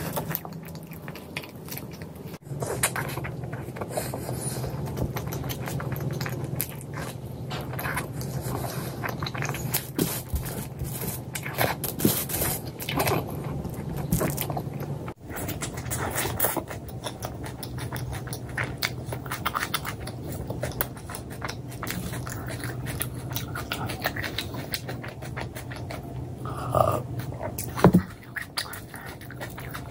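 Close-miked eating sounds: a person chewing food with wet mouth clicks and smacks, dense and irregular, over a steady low hum. A couple of louder mouth noises stand out near the end.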